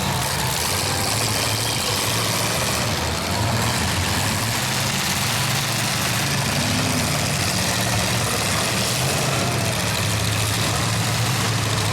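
Demolition derby cars' engines running together with a steady low rumble, without revving.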